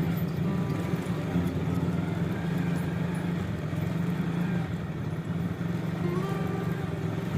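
Steady vehicle engine and street-traffic noise, with a few short, thin high tones over it.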